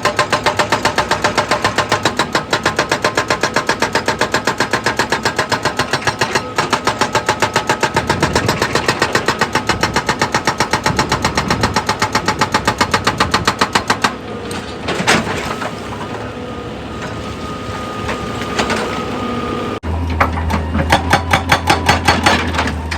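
Heavy machinery running with a rapid, even pulse. About 14 seconds in it turns softer with a few sharp knocks, and near the end it cuts abruptly to another rapidly pulsing machine.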